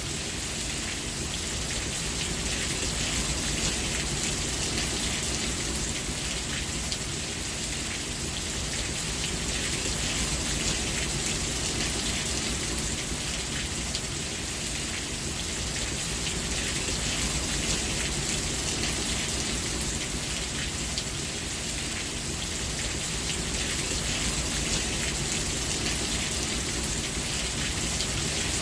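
Steady rain falling, a dense even hiss of raindrops on surfaces with faint individual drops ticking through it.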